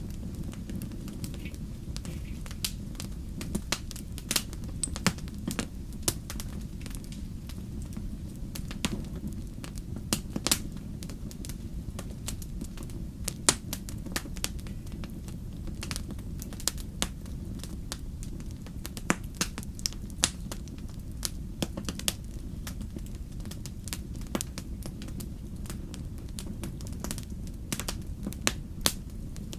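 Wood campfire crackling, with sharp irregular pops over a steady low rumble of the flames.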